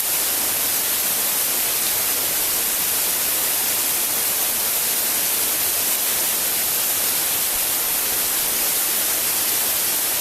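Waterfall close by, its falling water making a steady, loud hiss that does not let up.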